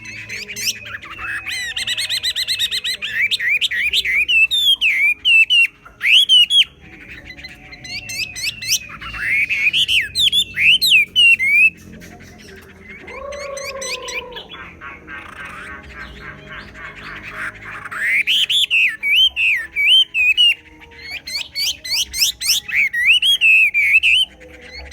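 Chinese hwamei singing: loud phrases of rich whistled notes, quick trills and upward-sweeping slurs, delivered in bursts of a few seconds with brief pauses. The song eases off for a few seconds in the middle, with one lower, sliding note, then comes back loudly.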